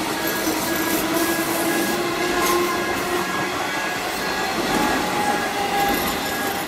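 Electric suburban train running past at speed, a steady rush of wheels on the rails with a few sharp clicks. A short high ding repeats about twice a second behind it.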